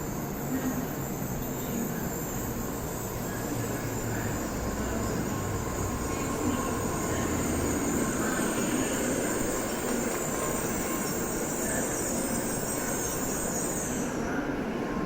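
Shinkansen train moving along the platform with a steady rumble and a high, even whine. The whine cuts off suddenly near the end.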